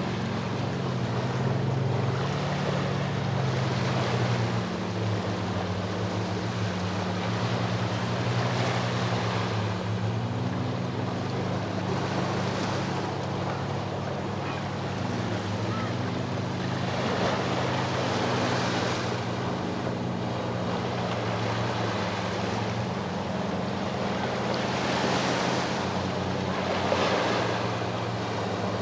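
Sea waves washing onto the shore, swelling and falling back every few seconds. A steady low drone runs under them, typical of a boat's engine offshore.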